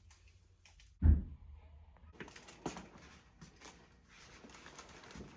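Kitchen handling sounds: one dull thump about a second in, followed by scattered light knocks and clicks.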